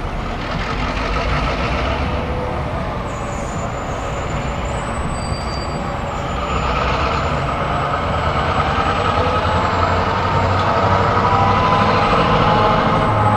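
EMD diesel locomotive engine running steadily, slowly growing louder.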